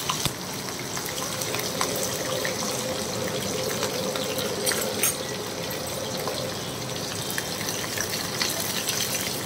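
Mustard seeds and long-cut green chillies sizzling in hot oil in a small kadai, a steady frying sizzle with a few scattered sharp pops: a tadka being tempered.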